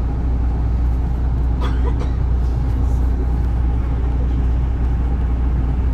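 Isuzu Erga city bus's turbo-diesel engine running steadily under way, heard from inside the cabin at the rear seat, a low, even hum with no clear change in revs.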